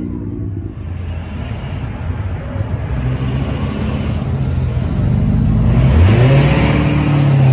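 A car engine running with a low rumble, then revving about six seconds in, its pitch rising as it gets louder.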